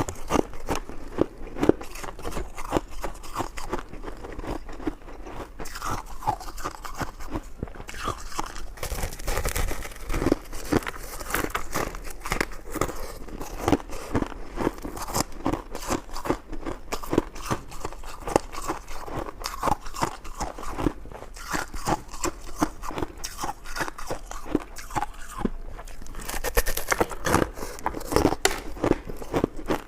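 Close-miked eating: a person biting and chewing food, with a dense, continuous run of quick wet clicks and mouth sounds.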